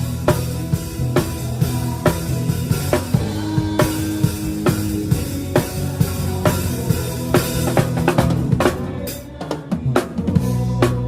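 Drum kit played live in a band: a steady beat of kick, snare and rim hits over the band's held low notes. About nine seconds in the low notes drop away under a quicker run of drum hits, and the band comes back in near the end.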